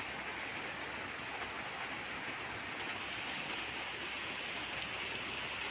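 Heavy rain falling steadily on a wet concrete yard, an even hiss with no let-up.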